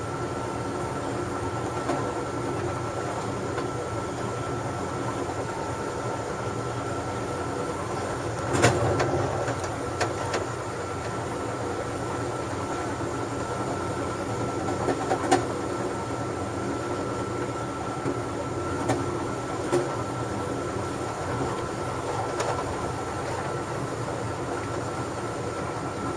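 Rumble of a moving passenger train heard from inside its last car (Amtrak California Zephyr), with a steady high hum underneath. A few sharp knocks and clacks break through now and then, the loudest about eight and a half and fifteen seconds in.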